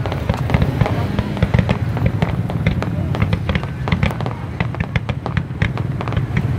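Fireworks display going off nonstop: many sharp cracks and pops in quick succession over a continuous low rumble of shell bursts.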